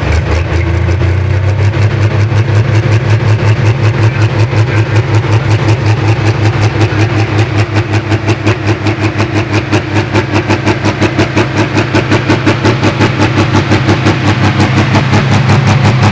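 Pro stock pulling tractor's diesel engine running loud, with a steady pulse of about five beats a second that swells again near the end.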